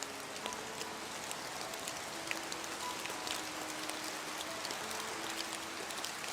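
Steady rain falling as an even hiss, with many separate drops ticking sharply against a surface throughout. Faint, sparse held musical notes sound softly beneath it, one at a time.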